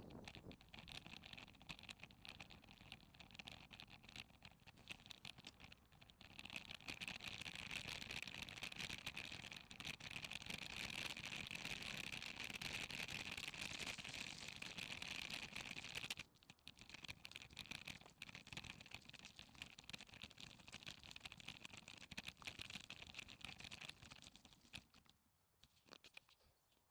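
Faint rapid ticking and crunching from a bicycle on the move along a path, densest and loudest for about ten seconds in the middle, then thinning out near the end.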